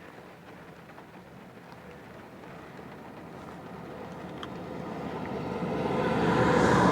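A steady rushing noise from inside a car in a heavy rain downpour, swelling steadily louder and peaking near the end.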